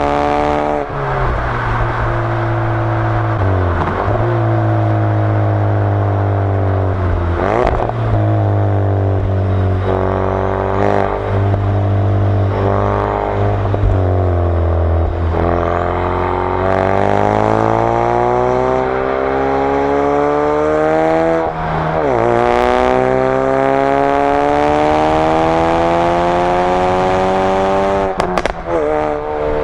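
2016 Ford Focus RS Mk3 2.3-litre turbocharged four-cylinder engine and exhaust pulling through the gears, heard from a microphone at the rear of the car. The pitch climbs steadily and drops sharply at each gear change, several times, with a few short sharp cracks around some of the shifts.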